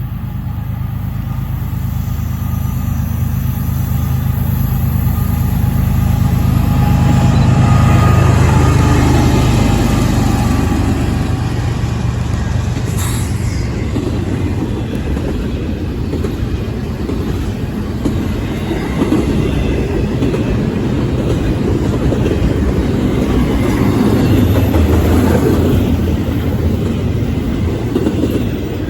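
Diesel freight locomotives passing close by, their engine drone building to a peak about eight seconds in and then fading. After that comes the steady rumble and clatter of freight cars rolling over the rails.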